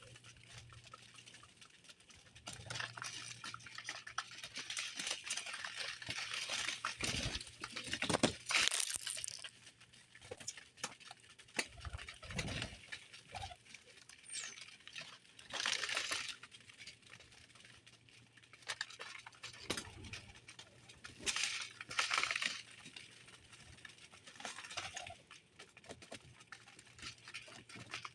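Small birds feeding at a feeder: scattered light taps and pattering, several short rustling bursts, and one brief high chirp about halfway through.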